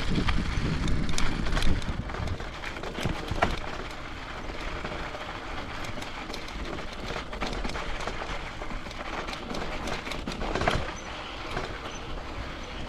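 Cradiac Alpha mountain bike being ridden over rough ground: a steady rolling rumble from the tyres with scattered rattles and knocks from the bike, and wind buffeting the microphone more heavily in the first two seconds.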